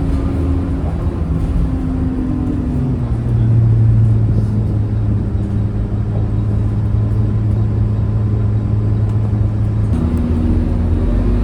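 Scania K230UB city bus's diesel engine running under way, a steady low drone. The engine note steps down about three seconds in and back up near the end.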